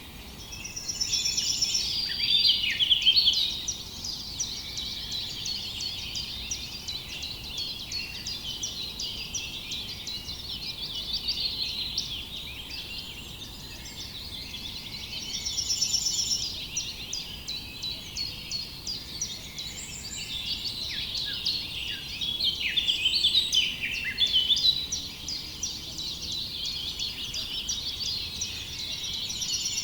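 A dense chorus of many small birds chirping and twittering continuously, with several overlapping songs and trills. It swells into louder flurries a few times.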